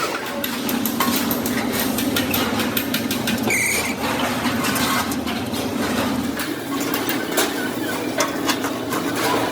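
A motor runs with a steady low hum that stops about two-thirds of the way through, under many short clicks and knocks.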